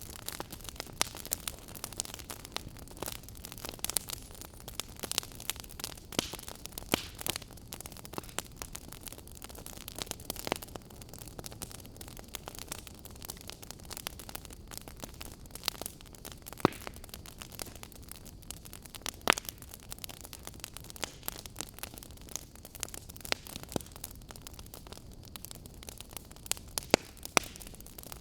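Wood fire in a fireplace crackling: frequent sharp pops and snaps over a steady hiss, with a few louder pops.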